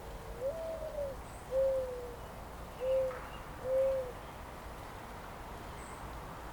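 A bird's low hooting call: a series of soft hoots, the first rising then falling, followed by three shorter arched notes, over a faint steady outdoor hiss.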